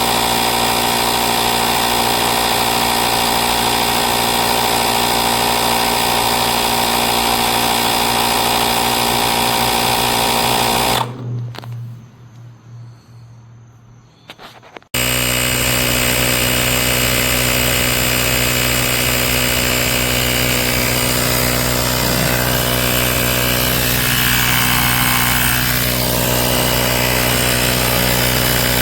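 AstroAI L7 portable electric air compressor running steadily, stopping about eleven seconds in, then starting again after a gap of about four seconds and running on.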